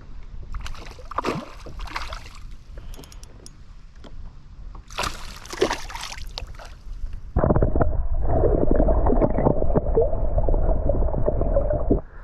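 Water splashing and sloshing around a kayak while a hooked fish is brought in. From about seven seconds in, a louder, muffled rumble with a steady hum runs for about five seconds and then cuts off suddenly.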